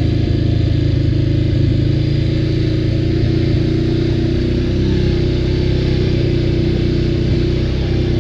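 ATV engine running steadily, a constant drone with no clear revving or change in pitch.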